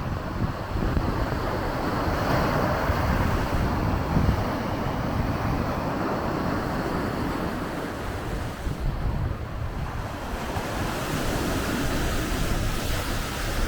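Small Lake Michigan waves breaking and washing onto the beach, with gusty wind buffeting the microphone.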